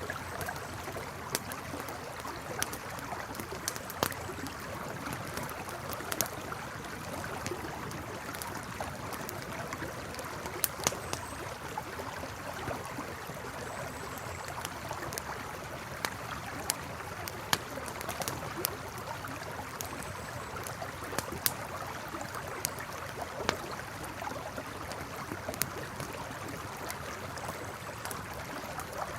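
A river flowing steadily, with a campfire crackling over it in scattered sharp pops and snaps.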